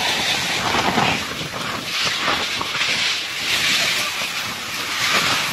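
Strong storm wind rushing, swelling and easing in gusts about every second or two.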